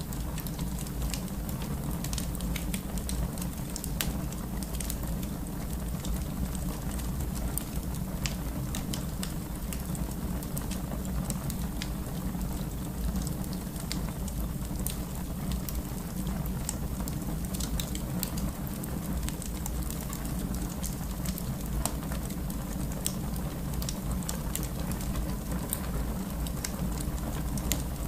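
Fire burning in a fireplace: a steady low rumble with many scattered sharp crackles and pops.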